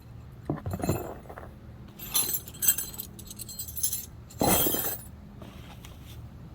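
Metal hand tools and hardware clinking and clattering as they are handled, in several bursts, the loudest about four and a half seconds in.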